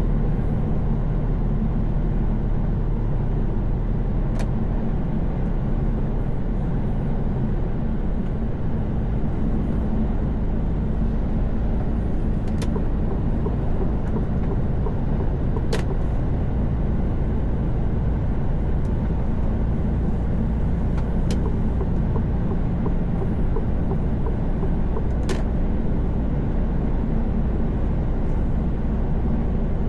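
Truck's diesel engine and tyre noise, a steady low drone at cruising speed, heard from inside the cab. Occasional sharp ticks break through it a handful of times.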